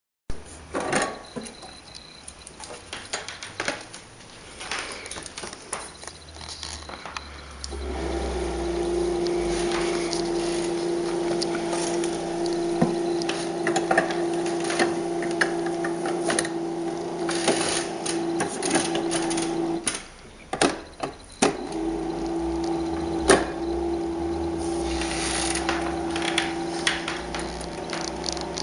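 Clicks and knocks of metal construction-set parts being handled, then a small electric motor in a model vacuum cleaner built from Merkur parts starts about eight seconds in and runs with a steady hum. It is switched off for a moment about twenty seconds in, then starts again.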